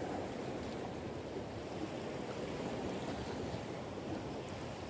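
Steady wind and surf noise, an even hiss with no distinct events.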